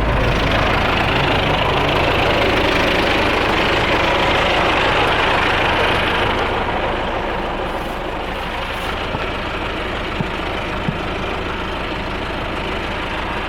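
Tractor engine running steadily at idle, a little quieter after about six seconds, with two short clicks a little after ten seconds.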